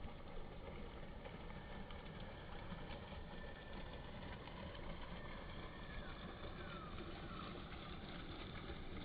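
Wind buffeting the microphone, a steady low rumbling noise, with a few faint short falling chirps about halfway through.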